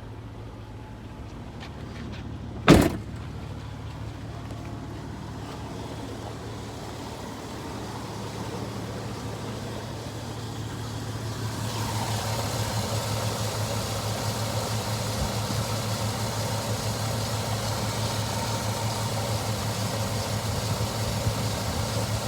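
Chevrolet 5.3-litre V8 idling steadily, with one sharp thump such as a door shutting about three seconds in. From about twelve seconds a louder steady hiss joins the idle.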